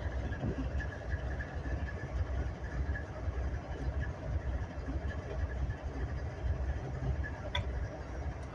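Steady low engine rumble at idle, with a faint high steady tone over it and a single sharp click near the end.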